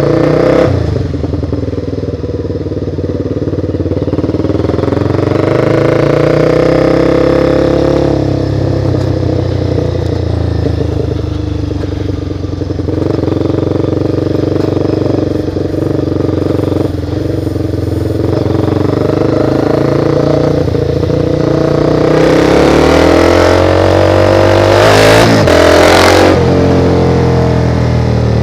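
Motorcycle engine running as it is ridden, its pitch rising and falling with throttle and gear changes, over a rush of wind noise. It grows louder and revs higher a little past three-quarters of the way in.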